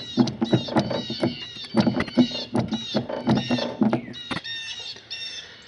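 Small birds chirping busily: many short, quick chirps one after another, with lower animal sounds beneath.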